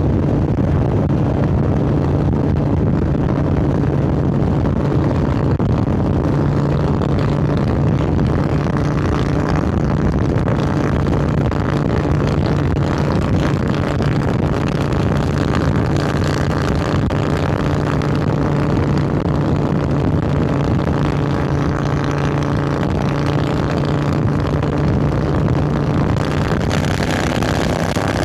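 Harley-Davidson Sportster 1200 Roadster's air-cooled V-twin running through Vance & Hines Hi-Output Grenades 2-into-2 exhaust, heard from the rider's collar while the bike holds a steady speed. The engine note stays steady, with no big revs or gear changes.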